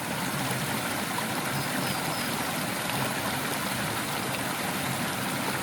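Water rushing steadily down a small stream cascade.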